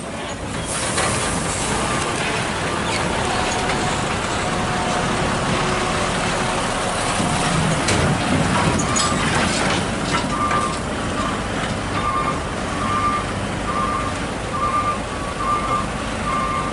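Heavy truck engines running in a queue, with a few short hisses and, from about halfway through, a vehicle's reversing beeper sounding in an evenly spaced series of beeps.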